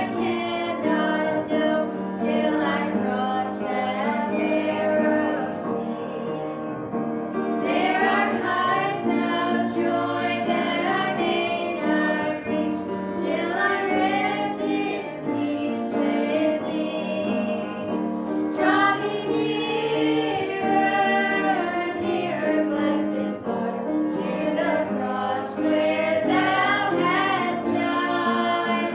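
Voices singing a gospel hymn with instrumental accompaniment.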